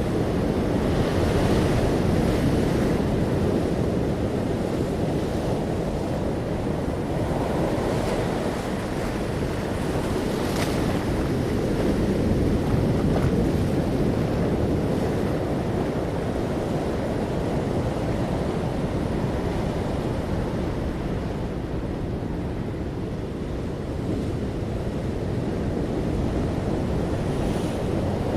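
Ocean waves washing in on the shore in a continuous rushing, swelling and easing slowly every several seconds, with wind blowing across the microphone.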